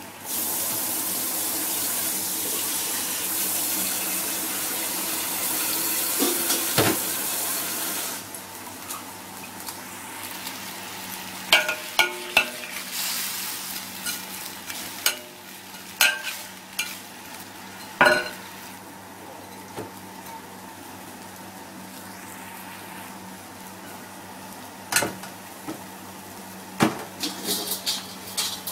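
Chicken wings, carrot and potato frying in a wok. A loud sizzling hiss runs for about the first eight seconds and cuts off sharply. After that, a metal spatula stirs the pieces, scraping and clinking against the wok a handful of times.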